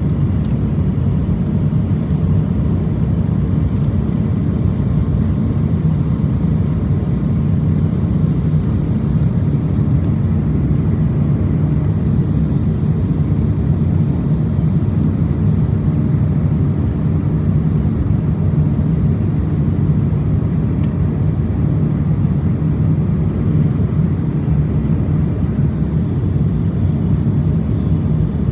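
Steady low rumble of cabin noise inside an Airbus A350-1000 airliner: engine and airflow noise that holds level without change.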